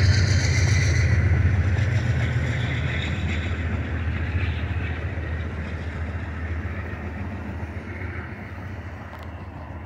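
A freight train's rumble and wheel noise fading steadily as it moves away.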